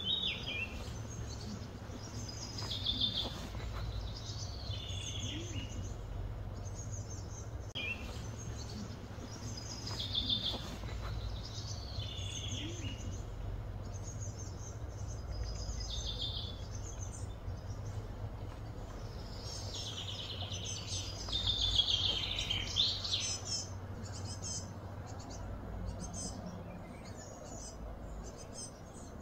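Birdsong: a songbird repeats short, high chirping phrases every two to three seconds, with a longer run of calls about two-thirds of the way through, over a steady low rumble of outdoor background noise.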